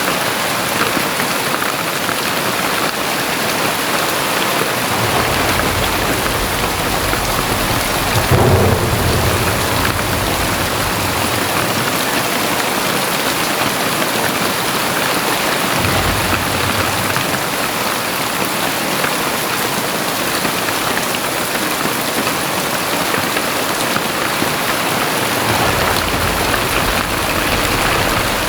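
Very heavy rain pouring down in a loud, steady hiss. Deep low rumbles swell and fade several times, the strongest about eight seconds in.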